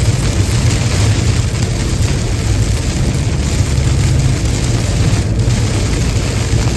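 A car driving on a wet highway in rain, with a steady low rumble under an even hiss of tyres on wet road and rain.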